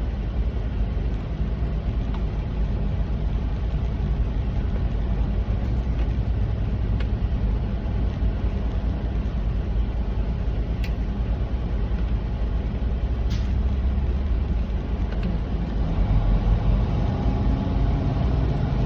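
Semi truck's engine and road noise droning steadily while driving, a little louder and with a low engine note rising near the end.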